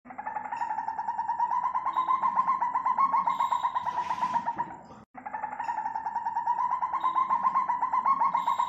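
Malayan civet call: a rapid, pulsing churr held at a steady pitch. It breaks off abruptly about five seconds in and starts again at once.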